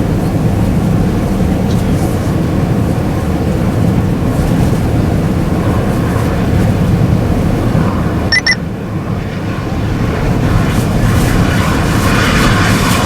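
Steady low rumble of a vehicle driving, road and engine noise. A short double electronic beep sounds about eight seconds in.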